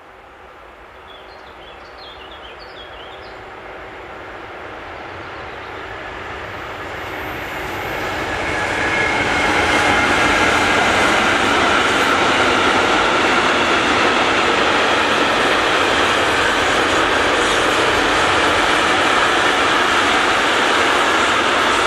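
Train approaching on the line and running past: the rolling noise grows steadily louder over about ten seconds, then stays loud and steady. Faint bird chirps are heard in the first few seconds.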